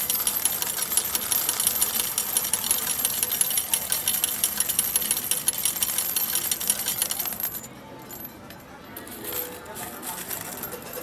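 Metal arcade medals clattering rapidly into a medal-pusher game as they are fired in one after another, over the machine's electronic music and jingles. About seven and a half seconds in, the clatter stops, leaving quieter scattered clicks.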